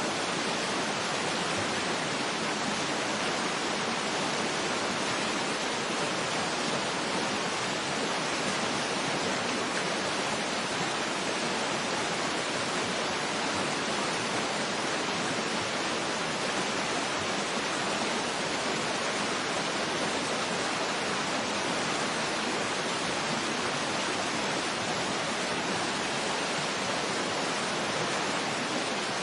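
Waterfall ambience: a steady, even rush of falling water with no changes.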